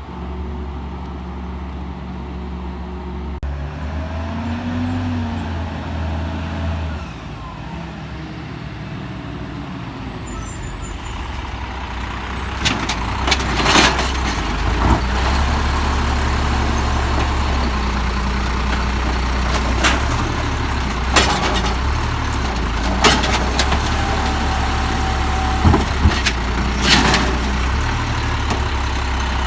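Peterbilt 320 garbage truck with an Amrep Octo automated side-loader, its diesel engine running and getting louder about halfway through. Over the second half come several sharp bangs.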